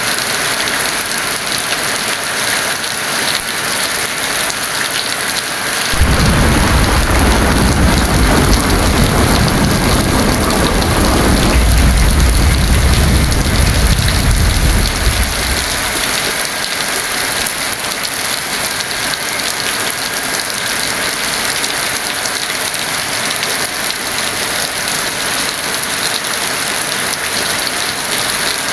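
Heavy rain falling steadily, with a roll of thunder that breaks in suddenly about six seconds in, rumbles deep for about ten seconds and then fades away.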